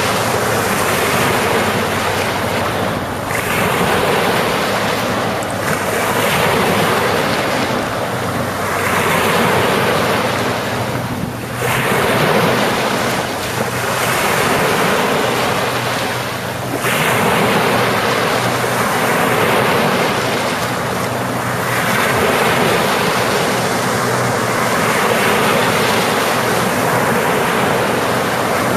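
Ocean surf washing onto the shore, a steady hiss that swells and eases with each wave every few seconds.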